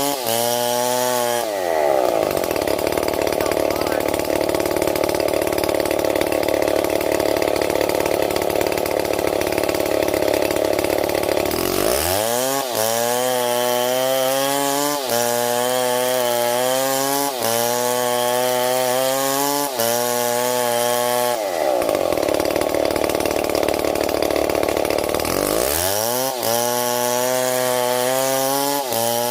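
STIHL MS 070 two-stroke chainsaw running at full throttle for about ten seconds, then dropping to a lower speed with its pitch sagging and recovering every second or two. About two-thirds of the way through it goes back to full throttle for a few seconds, then drops again near the end.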